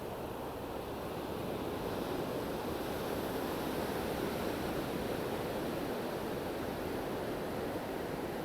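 Surf on a beach: a steady rushing wash of waves, swelling a little about two seconds in.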